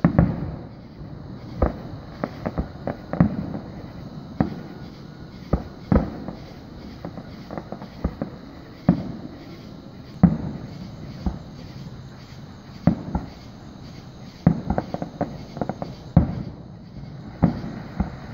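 Aerial firework shells bursting: a string of sharp booms at irregular intervals of a second or two, each trailing off in a fading echo, with a quick cluster of bursts about three-quarters of the way through.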